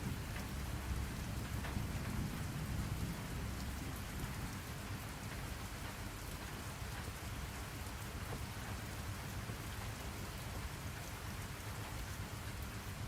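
Steady rain falling, with scattered drop ticks. A low rumble of distant thunder underneath eases off after the first few seconds.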